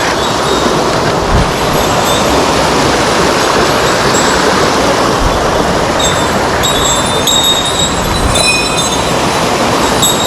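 Mountain stream water rushing steadily and loudly over rocks.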